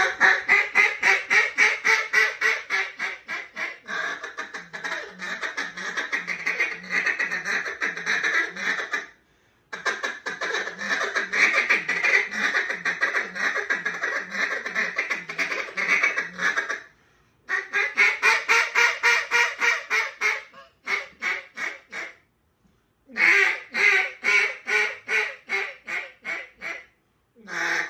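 Old Echo Timber duck call in DymondWood blown in long strings of rapid quacks, about four a second. The calling comes in several runs with short breaks between them.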